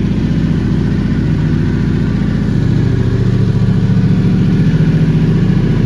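Yamaha Ténéré 700 World Raid's parallel-twin engine idling steadily through an aftermarket HP Corse titanium exhaust with its baffle fitted, soon after a cold start. It grows a little louder from about halfway.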